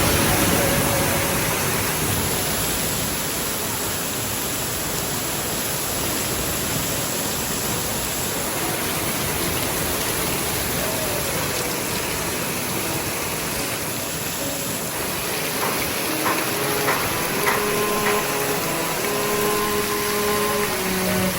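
Steady rushing water, an even hiss with no rhythm, with faint distant voices breaking in over it in the last few seconds.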